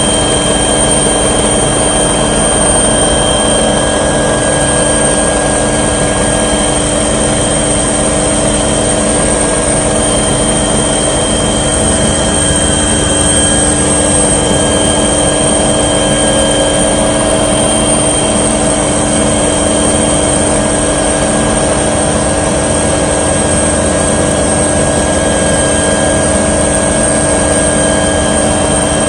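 Aircraft engine drone in steady flight: a constant loud noise with several unchanging tones, including a high whine, and no change in pitch.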